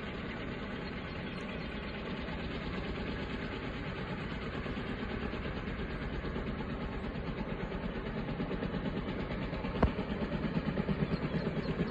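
Helicopter running, a steady rotor and engine noise whose pulsing rotor beat grows louder over the last few seconds. A single sharp click about ten seconds in.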